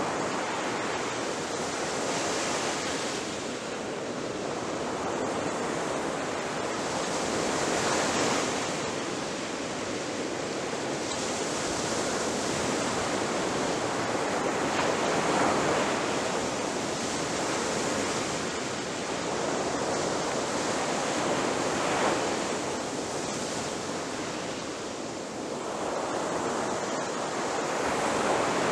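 Ocean surf breaking on a beach: a continuous rush of water that swells and falls back every few seconds as each wave crashes.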